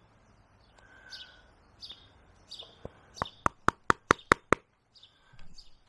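Small birds chirping in the background. About halfway through comes a quick run of about seven sharp taps, roughly five a second: a small carving chisel being tapped into the tree's wood to mark the eye cuts.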